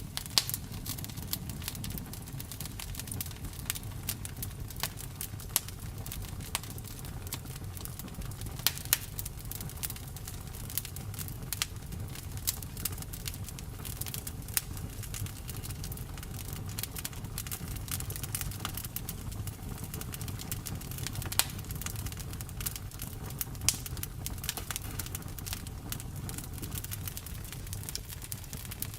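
Wood fire crackling, with frequent irregular sharp pops and snaps over a low steady rush of the burning.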